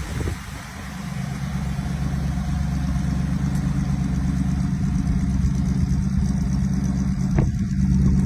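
Car engine idling steadily, after a brief drop in level just after the start, with a single click about seven seconds in.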